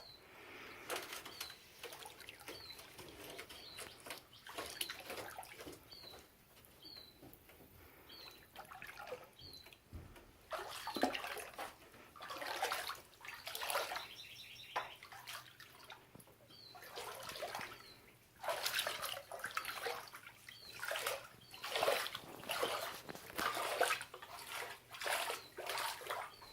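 Water splashing and sloshing in irregular bursts, busier in the second half, with a bird's short high chirp repeating about once a second.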